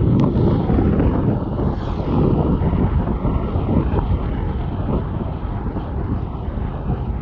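Motorcycle riding on the road, its engine running steadily under a loud rush of wind buffeting the microphone.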